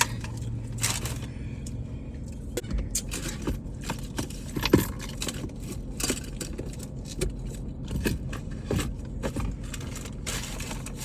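Irregular clicks, knocks and light scrapes of objects being handled and rummaged inside a car, over a low steady hum.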